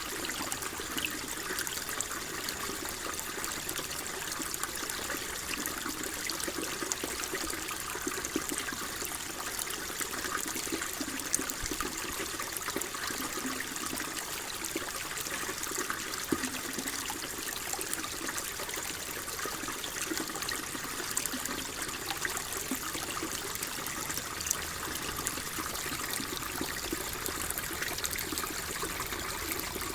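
Water flowing and trickling steadily, a continuous splashing rush with small bubbling ticks, like a small stream running over stones.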